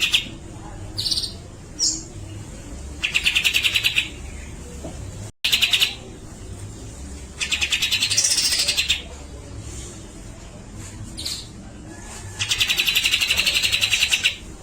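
Cucak jenggot (grey-cheeked bulbul) singing in repeated bursts of rapid rattling trills, each lasting a second or two. Short single chirps come between the bursts.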